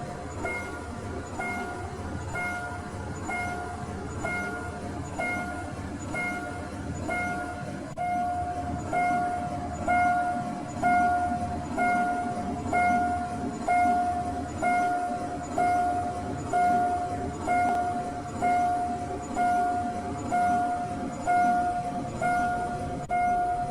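Railway level crossing warning bell ringing, one ding about every second, louder from about eight seconds in, over the low rumble of a train.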